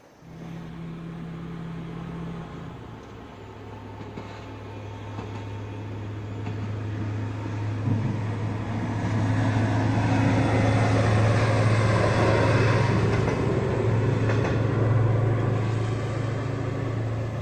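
A train passing close by: a steady low hum under a rumble and wheel-on-rail noise that build to a peak in the second half, then cut off suddenly.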